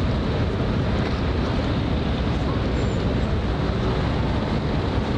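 Steady low rumble and hiss of wind buffeting the microphone over waterfront ambience.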